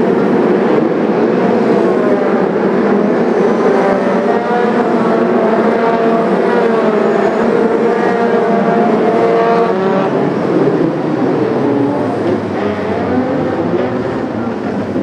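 Engines of several racing cars running together, their pitches rising and falling and overlapping as they rev and pass.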